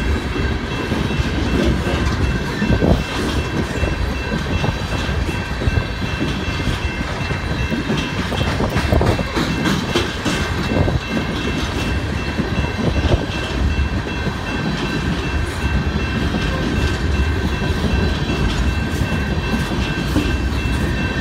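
Empty coal cars of a slow freight train rolling past: a steady rumble of steel wheels on rail with clickety-clack over the rail joints. A thin, steady high ringing tone runs over it.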